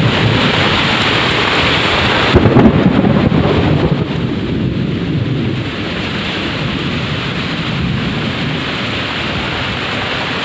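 Heavy rain pouring down: a steady hiss over a low rumble. It turns duller and a little quieter a few seconds in.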